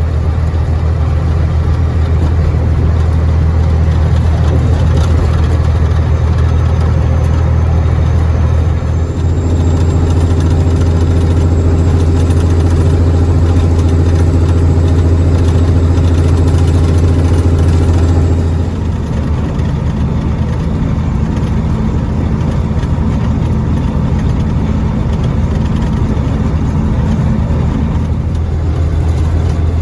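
Caterpillar 3406E inline-six diesel of a Freightliner FLD120 semi truck running steadily as the truck drives, a deep, even drone. Its tone changes about nine seconds in, and it gets a little quieter a few seconds before halfway.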